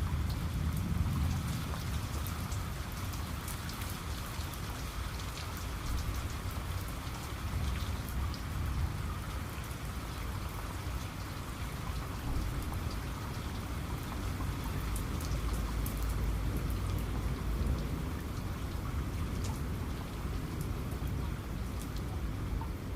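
Steady heavy rain falling, with many individual drops ticking on a surface over a deep low rumble of thunder that swells around the start and again about two-thirds of the way through.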